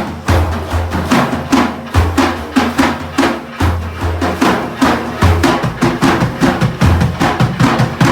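Sufi frame drums played in a fast, steady rhythm, dense sharp strikes with deep bass strokes recurring every second or so, with no singing over them.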